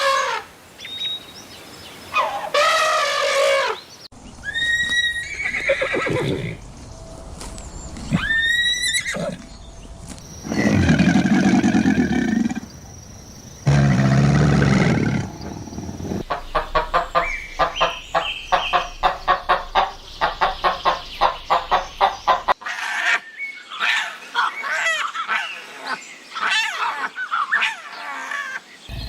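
Farm animals calling in a string of short clips cut one after another. High-pitched calls come first, then deep low calls in the middle, then a run of quick repeated calls at about three a second, and mixed calls near the end.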